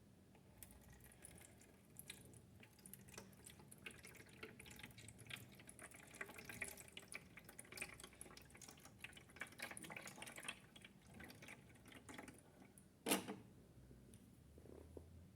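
Water dripping and splashing in a toy washing machine's tub: a faint, busy patter of small drops, with one louder knock about thirteen seconds in.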